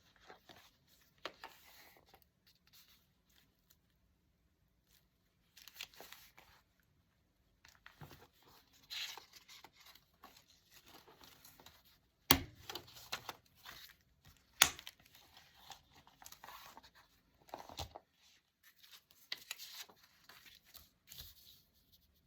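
Paper being handled, rustled and torn in short stop-start bursts, with two sharp taps about two seconds apart past the middle.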